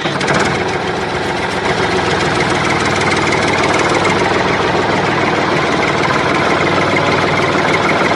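Tractor engine idling steadily, with a fast, even knocking beat.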